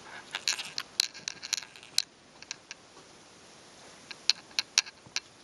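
A run of short, sharp clicks and crunches in two clusters, with a quieter stretch of about two seconds between them.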